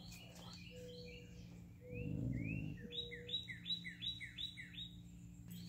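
A bird singing outdoors: a few chirps, then a quick run of about six or seven repeated whistled notes that each sweep down, roughly three a second. A brief low rumble about two seconds in is louder than the song.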